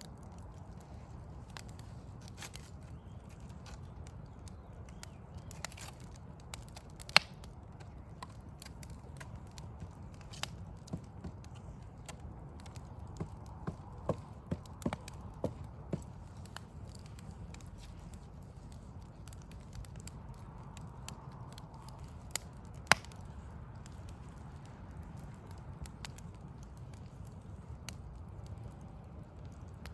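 Wood fire of burning logs crackling, with scattered sharp pops and a quick run of pops about halfway through, over a steady low rumble.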